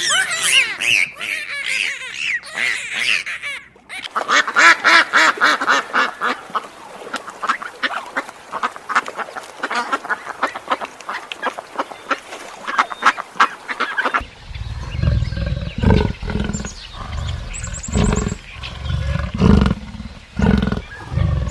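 Rapid, repeated high-pitched animal calls, then about two-thirds of the way in a lion starts roaring: a series of deep grunting roars about a second apart.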